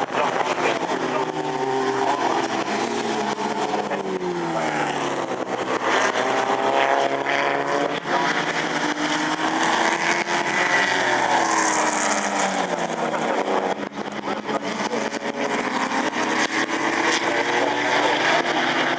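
Several racing sports car engines running hard together, their pitches rising and falling and crossing as the cars accelerate, change gear and pass.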